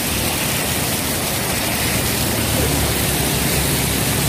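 Heavy rain pouring steadily with an even hiss, under a low engine hum from motorbikes riding along the flooded road.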